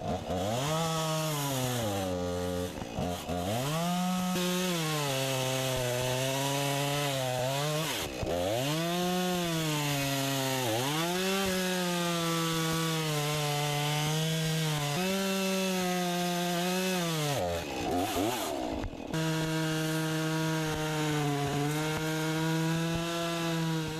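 An engine running steadily, its pitch rising and falling as it revs up and down, with a few brief sharp drops in speed.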